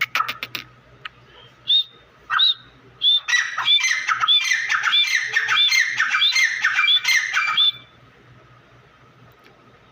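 Grey francolins calling: a few separate shrill notes, then a fast run of repeated shrill notes, about two a second, that stops abruptly about two seconds before the end.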